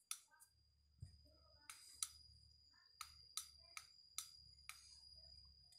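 Faint, irregular clicks of keys or buttons being pressed, about a dozen, over a faint steady high-pitched tone.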